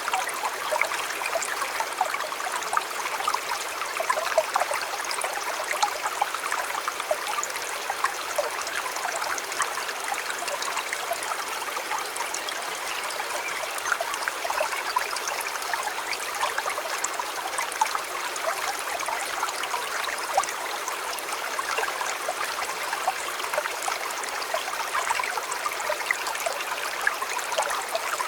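River water flowing steadily over stones: an even rush speckled with many small splashes and trickles.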